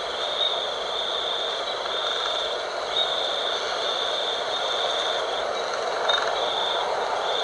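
Night wind blowing steadily, with a high, pulsing trill repeating about once a second over it.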